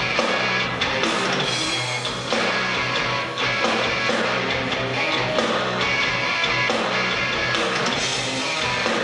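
Live noise-rock band playing loud, with heavily distorted electric guitar and a steady, dense wall of sound.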